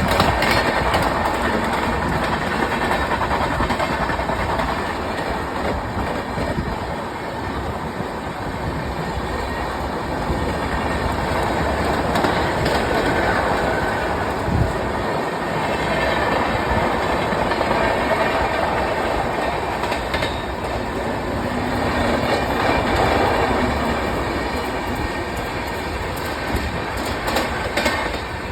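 Shatabdi Express passenger train running on the rails, a steady rumble with wheels clattering over the rail joints.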